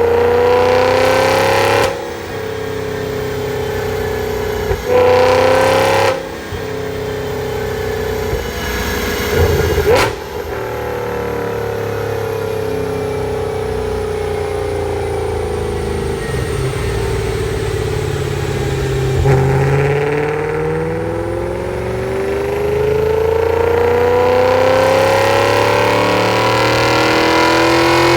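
2008 Audi RS4's 4.2-litre V8 running on a chassis dyno through a high-pitched aftermarket exhaust. In the first ten seconds it gives three short revs with exhaust burps, the last ending in a sharp crack. It then holds with its pitch slowly sinking, and from about two-thirds through it goes into a full-throttle pull toward redline, its pitch climbing steadily.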